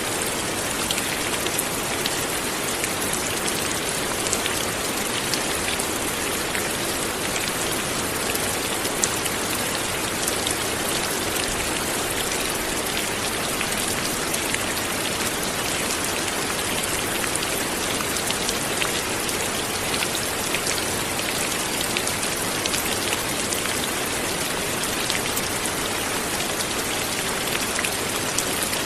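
Light rain falling steadily: an even patter with many small drop ticks on a surface.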